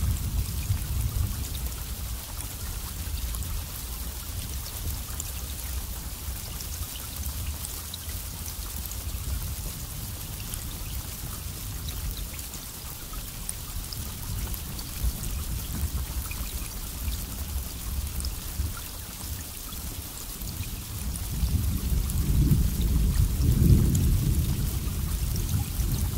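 Steady rain with thunder rumbling low beneath it; the thunder swells into a louder rolling peal near the end.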